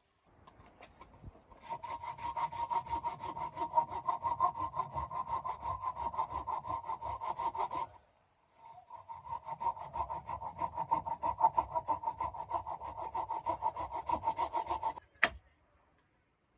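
Hand saw cutting through firewood with quick, even back-and-forth strokes in two long bouts, with a short pause between them. A single sharp knock comes near the end.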